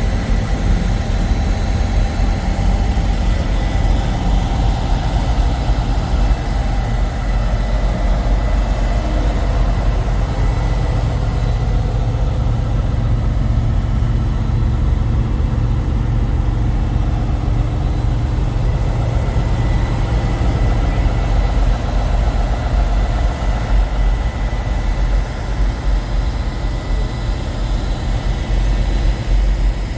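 Diesel semi-truck engines idling: a steady deep rumble, with a faint steady high whine above it.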